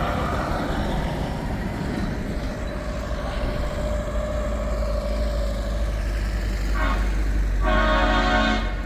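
Heavy truck engines rumbling as trucks drive past, then a truck air horn: a short toot about seven seconds in and a longer blast near the end.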